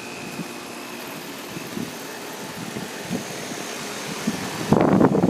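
2007 Guardian 4-ton central air conditioner's outdoor condenser unit running steadily, its fan and compressor giving an even whooshing hum with a faint high whine that fades out about a second and a half in. Near the end a sudden, much louder rush of noise cuts in over it.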